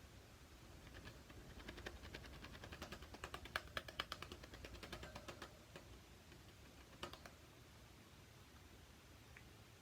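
Faint, quick clicking from pet cockatiels, running for a few seconds, with one more click a little later.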